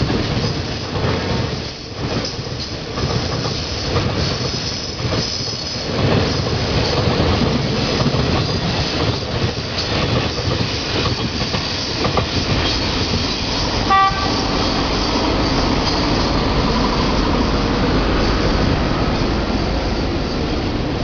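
Freight train hauled by a DF4B diesel locomotive running past on the line: a steady rumble and clatter of wagon wheels on the rails, growing heavier in the second half, with a brief high tooting tone about two-thirds of the way in.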